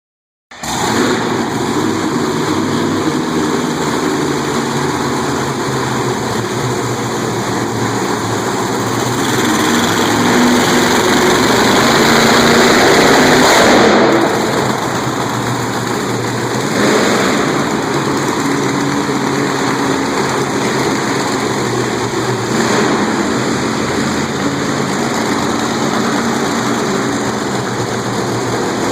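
Monster truck engine running loud, swelling steadily to a peak about halfway through, then dropping back suddenly and running on.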